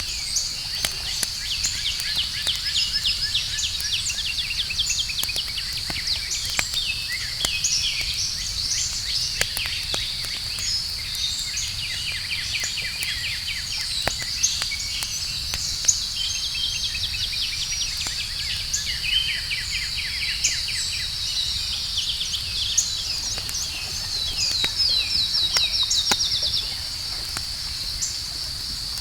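Outdoor night ambience: a steady high chorus of crickets and other insects, with birds chirping and trilling over it and the scattered sharp pops of a crackling campfire. A fast run of trills comes near the end.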